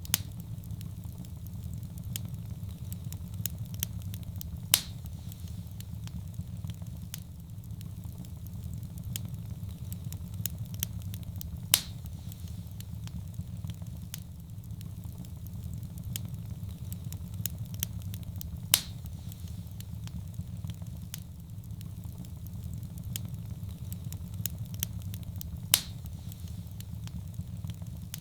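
Fireplace fire burning with a steady low rumble and constant small crackles. Four loud sharp pops come about seven seconds apart.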